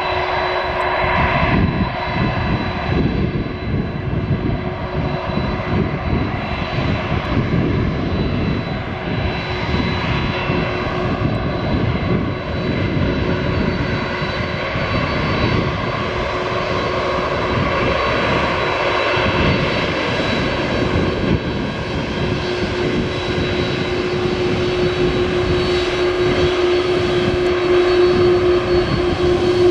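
Boeing 767-424ER's twin General Electric CF6-80C2 turbofans running as the airliner taxis, a steady jet whine with several held tones over a rumbling noise. One of the whining tones grows stronger in the last few seconds.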